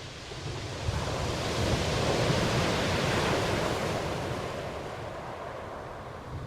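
Ocean waves: a single wave swells in about a second in, washes loudest in the middle, then slowly recedes.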